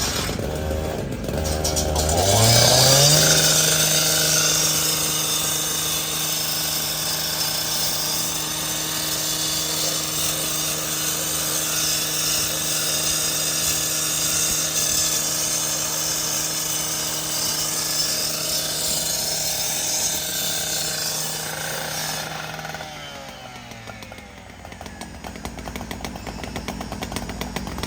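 A motor-driven machine speeds up about two seconds in, runs at a steady high speed with a loud whine and rush for about twenty seconds, then winds down near the end.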